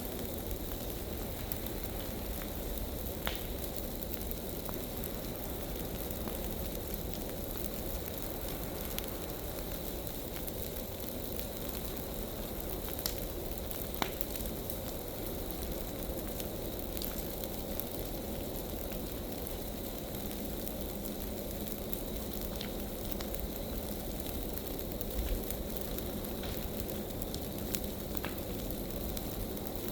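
Bonfire of large dry leaf piles burning: a steady rushing of flames with scattered sharp pops and crackles.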